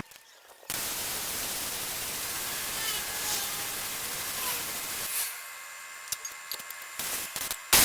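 A steady hiss that starts suddenly about a second in and drops away about five seconds in, followed by a few faint clicks and a short loud burst of noise near the end.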